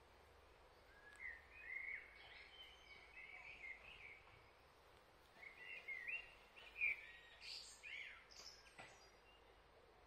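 A small songbird singing in two runs of short chirping notes, one starting about a second in and another after the middle, over a faint steady hiss.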